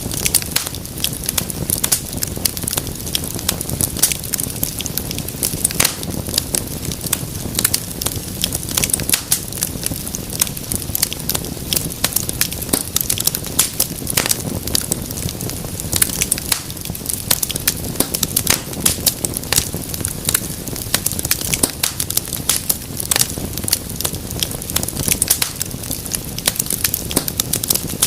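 Wood fire crackling steadily, with dense irregular sharp pops and snaps over a low rumble of flames.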